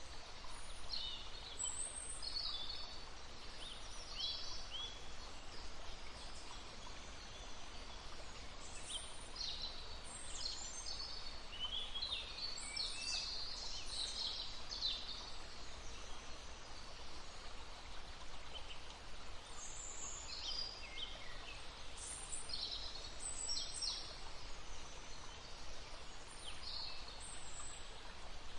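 Several small songbirds chirping and trilling in short high-pitched phrases, thickest about halfway through, over the steady rush of a babbling brook.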